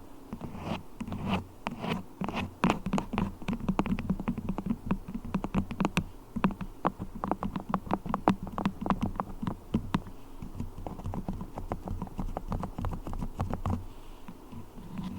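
Beeswax worked close to a microphone, making a fast, uneven run of small sticky clicks and crackles that thins out near the end.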